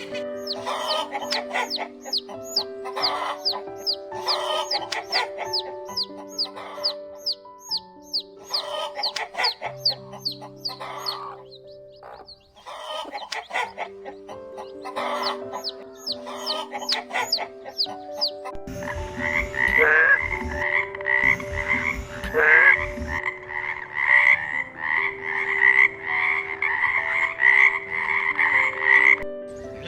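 Chicks peeping in clusters of rapid falling chirps for the first two-thirds, then frogs croaking in a regular pulsed call about three times a second, over background music with sustained notes.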